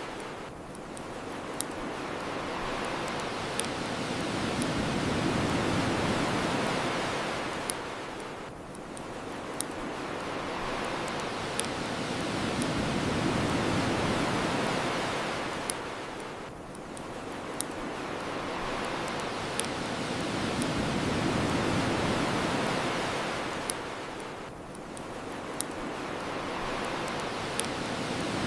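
Ocean waves washing onto the shore, rising and falling in slow swells about every eight seconds. A bonfire crackles over them, with sharp single pops every couple of seconds.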